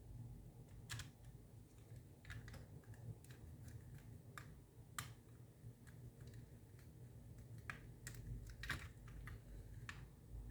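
Faint, irregular light clicks and taps from small parts and tools being handled, over a low steady hum.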